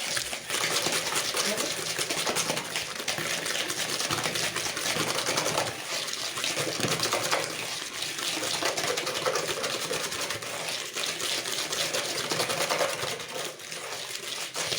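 Egg yolks and sugar being whisked in a bowl, a rapid continuous clicking and scraping that beats the mixture until it turns pale.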